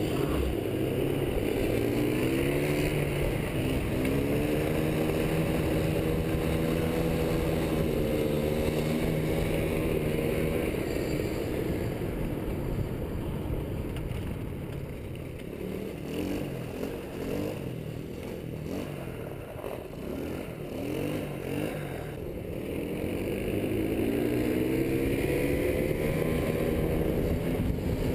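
Car engine pulling under load, its pitch climbing early on and again near the end, with a stretch in the middle where it eases off and runs quieter and rougher, under wind and road noise.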